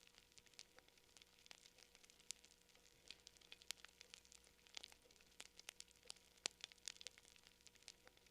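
Campfire crackling: irregular sharp pops and snaps from burning wood over a faint steady hiss.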